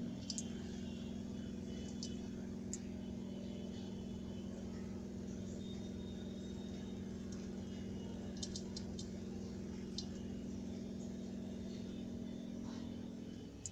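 Aquarium pump humming steadily as an even electrical drone, with a few faint high ticks over it.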